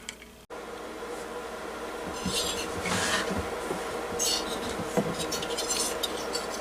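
Parts of a diesel heater being handled during disassembly: irregular scraping and rubbing of the shell and components, over a steady hum that starts after a brief break about half a second in.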